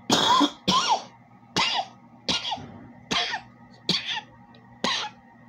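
A person coughing repeatedly: seven harsh coughs in a row, about one every three-quarters of a second.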